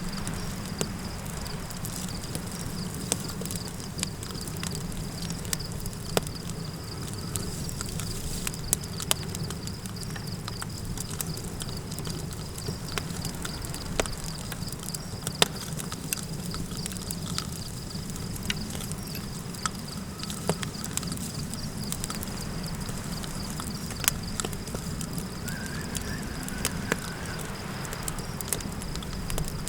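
Campfire crackling, with sharp irregular pops over a steady low rumble of burning wood and wind. A thin, steady high-pitched trill runs underneath.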